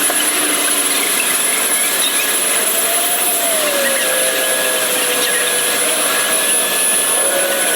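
Self-serve car wash equipment running with a steady, loud rushing hiss. A faint tone wavers and dips in pitch around the middle.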